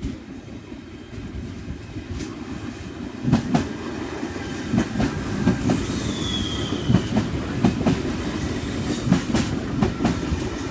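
V-set intercity electric train rolling through the station, its wheels clicking over rail joints, getting louder about three seconds in. A brief falling wheel squeal comes around six seconds in.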